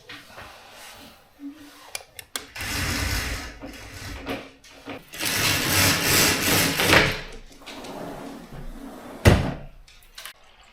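Objects being handled and moved in a small room: two long stretches of rustling and scraping, scattered clicks, and a single sharp knock near the end.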